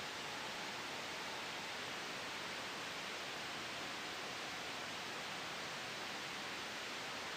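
Soft white noise: a steady, even hiss with no changes, made for sleep and noise masking.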